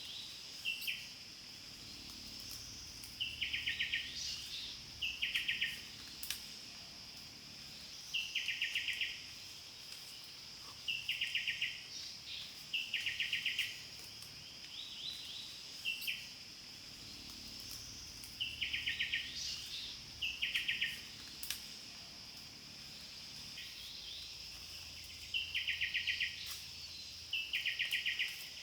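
Forest insects: a steady high-pitched buzz, with loud trilled chirps of about half a second each. The chirps often come in pairs, every few seconds.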